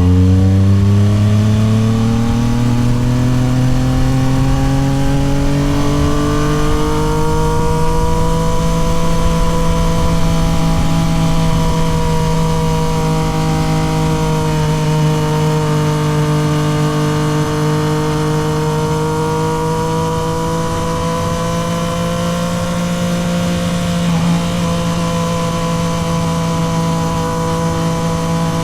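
Yamaha MT-09 SP's 890 cc inline-three engine through a Toce full exhaust, its note climbing steadily for the first several seconds as the bike pulls in one gear, then holding a nearly steady pitch at cruising speed.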